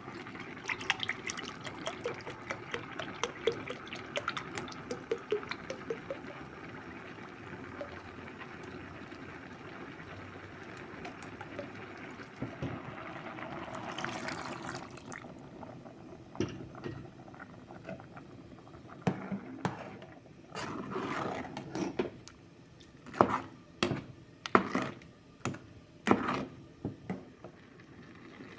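Liquid being poured and splashing, with small clicks and clatter. In the second half it breaks into several short separate pours or splashes.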